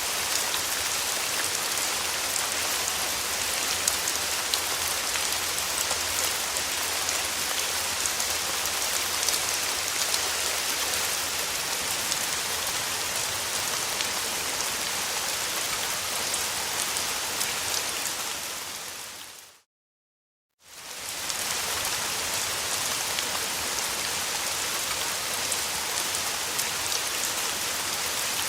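Steady rain, a dense hiss with individual drops ticking through it. About two-thirds of the way in it fades out to a second of complete silence and then fades back in.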